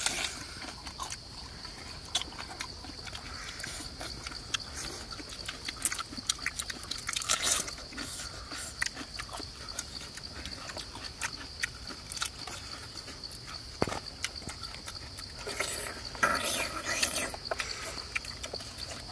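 Close-up chewing and crunching with wet smacking mouth noises as a person eats, heard over a steady high insect drone.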